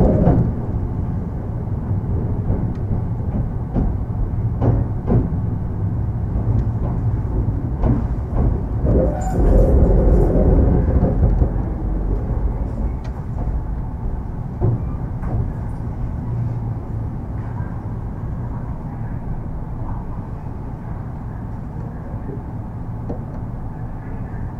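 Onboard running sound of a Kintetsu 3200 series electric train with Mitsubishi GTO-VVVF control: a steady rumble of wheels on rail with scattered knocks, loudest around ten seconds in, then gradually growing quieter.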